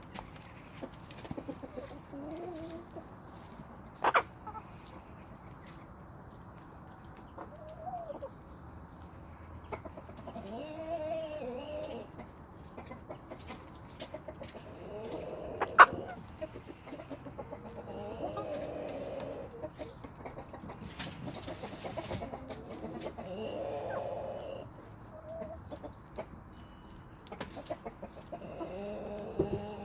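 Domestic chickens clucking in short, repeated calls, with scattered sharp taps; the loudest taps come about four seconds in and again about sixteen seconds in.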